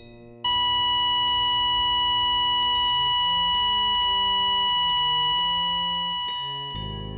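Heart-monitor flatline sound effect: one steady high beep that starts suddenly about half a second in, holds, and fades away near the end, signalling that the heart has stopped. Low music notes change pitch underneath it from about halfway through.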